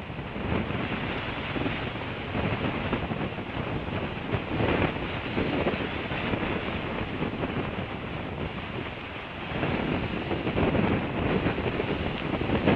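Wind buffeting an outdoor nest-camera microphone: a rushing, fluctuating noise that gusts louder near the end.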